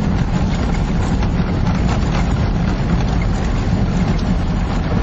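Steady vehicle driving noise: a continuous low engine and road rumble with wind buffeting the microphone.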